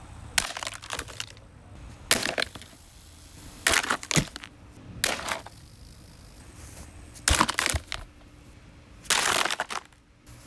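Holmes Air box fan being smashed, its housing cracking and breaking under repeated blows: about seven bouts of cracks and crunches at irregular intervals, some single sharp hits and some longer crunching stretches.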